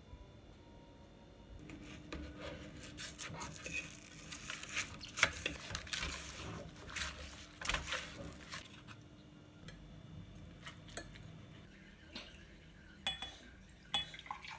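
Dishes and cutlery clattering and clinking in a kitchen, busiest for several seconds, then a few scattered clinks near the end.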